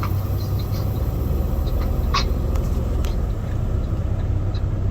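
Semi truck's diesel engine and road noise heard from inside the cab while driving: a steady low rumble, with a few short high squeaks, the clearest about two seconds in.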